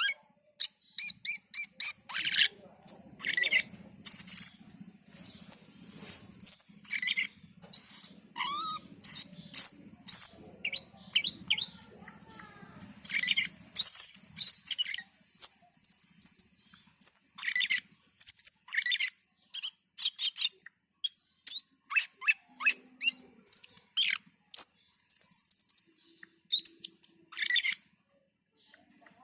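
Cucak keling songbird calling intensely, a rapid, irregular string of short, sharp chirps, clicks and harsh chattering notes with frequent high whistles.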